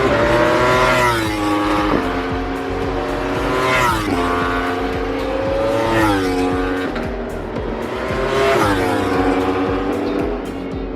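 High-revving racing motorcycle engines at full throttle on the circuit, the pitch climbing and then dropping sharply again and again, about every two seconds.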